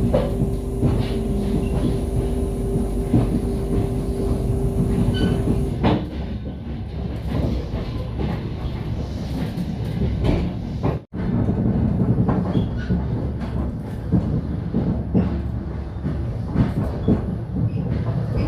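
Passenger train running, heard from inside the carriage: a steady rumble with wheels clacking over the rail joints. A steady hum stops about six seconds in, and the sound cuts out for an instant about halfway through.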